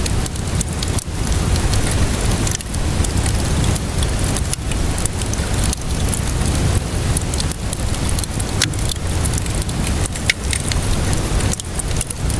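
Steady rainfall hissing, mixed with a wood fire crackling, with scattered sharp pops throughout.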